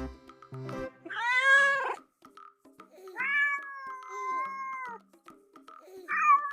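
Domestic cats meowing three times: a loud arched meow about a second in, a long, fairly level meow of nearly two seconds from about three seconds in, and a short falling meow near the end.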